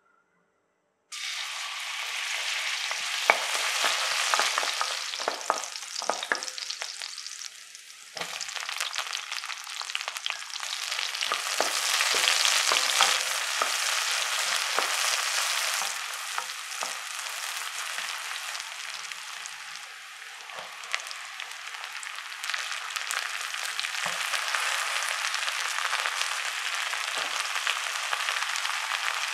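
Sliced onions and garlic sizzling in hot oil in a wok, starting suddenly about a second in. A wooden spatula stirring them gives scattered light knocks against the pan.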